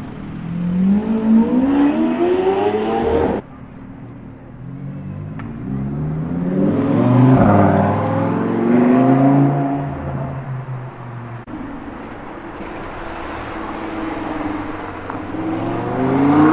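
Supercar engines accelerating on a street. One engine revs up with rising pitch for about three seconds and cuts off abruptly, then another engine rises and falls in pitch as it accelerates, with a fresh rev climbing near the end.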